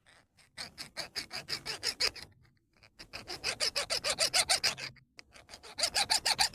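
Chainsaw file scraped quickly back and forth across a gemstone in three bursts of about seven strokes a second, with a squeaky tone in the strokes. The file slides over the stone without scratching it and leaves metal streaks: the stone is harder than the file.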